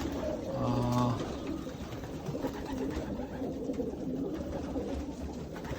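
A loft full of young racing pigeons cooing, many overlapping low coos over a steady rustle of birds moving in the room.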